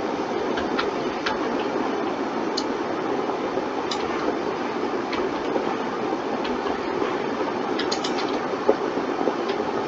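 Scattered light clicks from a computer mouse and keyboard, a few at a time with gaps, over a steady even hiss.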